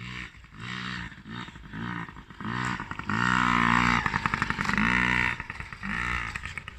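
Off-road vehicle engine blipping its throttle in short rises and falls about twice a second, then held at high revs for about two seconds before blipping again.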